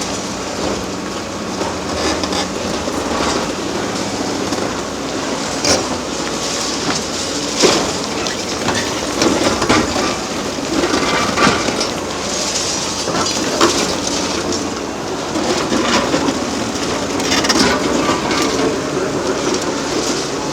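Hydraulic demolition excavator working on a concrete bridge: its diesel engine runs steadily under load while concrete is crushed and broken. Irregular cracks, knocks and clattering of breaking and falling concrete come throughout, loudest at about eight and about fourteen seconds in.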